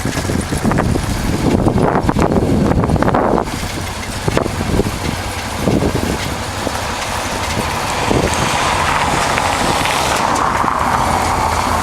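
1988 Honda Transalp's V-twin engine running under way, with rushing wind noise; the sound becomes a steadier hum about eight seconds in.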